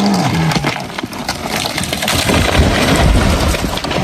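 A large felled tree coming down, its branches crashing and rushing through the canopy, with a heavy low rumble of impact a little past halfway. A machine's engine note dies away in the first second.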